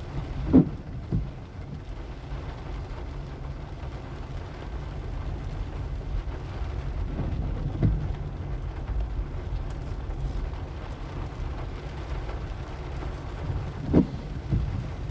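Car driving over a rough, wet sandy road: a steady low rumble of engine and tyres, broken by several sharp knocks as the wheels hit bumps and ruts, a pair about half a second in, one near eight seconds and a pair near the end.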